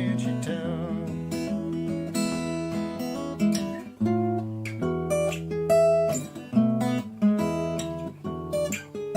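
Acoustic guitar playing an instrumental passage with no singing: a run of plucked notes over a changing bass line.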